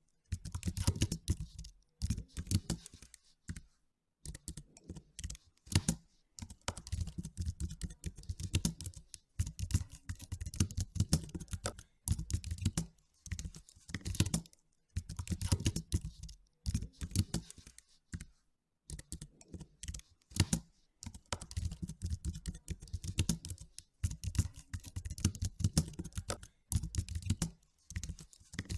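Typing on a computer keyboard, with quick runs of key clicks that each have a soft low thump, broken by short pauses every few seconds.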